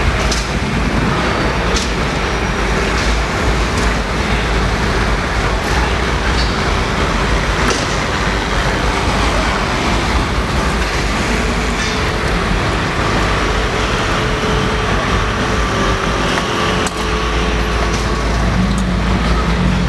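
Steady ambience of a large exhibition hall: an even, continuous low rumble with a few faint clicks.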